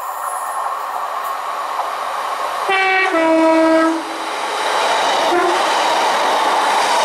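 Class 156 diesel multiple unit sounding its two-tone horn about three seconds in: a short high note, then a longer low one. Under it the rumble of the train growing louder as it runs past close by on the rails.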